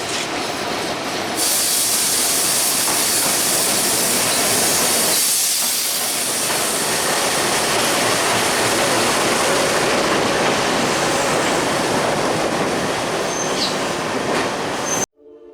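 Intercity express train of LHB coaches running past at close range: a loud, steady rush of wheel and rail noise, with a hissing edge that comes in about a second in. Near the end the train sound cuts off abruptly and faint music begins.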